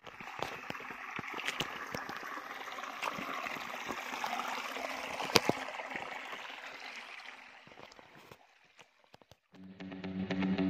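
Water of a small stream running and trickling, with scattered small splashes and clicks; it fades out about eight seconds in. Near the end, music with a guitar through effects begins.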